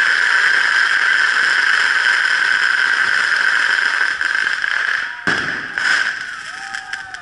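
Firework giving off a loud, steady, high screaming whistle, cut by a sharp bang about five seconds in, after which the whistle dies away.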